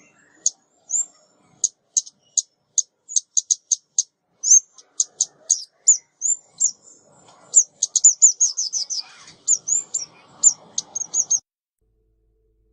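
Female 'ốc mít' small songbird calling, the kind of recording used as a hunting lure. It gives an irregular string of sharp, very high chips and short down-slurred notes, with a fast run of them about eight seconds in, and stops about eleven seconds in.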